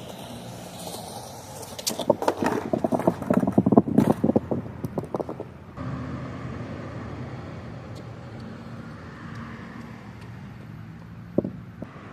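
Skateboard clattering over rough concrete, a dense run of sharp irregular clacks for a few seconds, over a steady low hum of traffic; one more sharp knock near the end.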